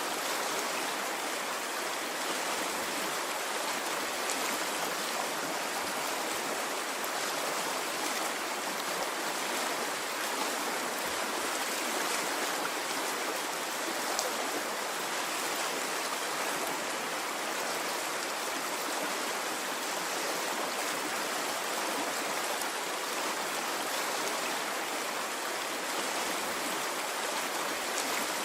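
A stream of running water flowing steadily: an even, continuous rush with no breaks or surges.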